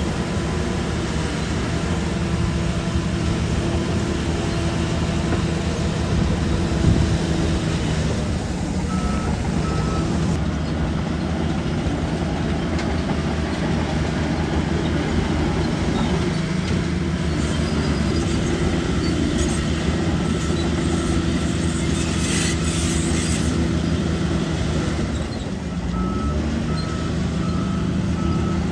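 Shantui DH17 bulldozer's diesel engine running steadily under work, with a thud about seven seconds in and the engine dipping and picking up again near the end. A few short, evenly spaced beeps sound about nine seconds in and again near the end.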